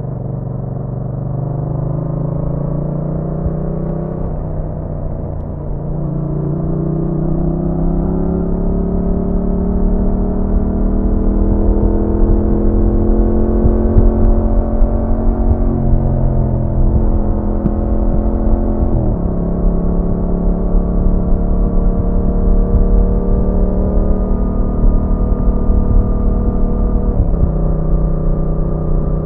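Yamaha MT-07's parallel-twin engine heard from the rider's seat, pulling up through the revs with its pitch climbing and dropping sharply at several gear changes, then holding a steady pitch between shifts, with road and wind rush underneath.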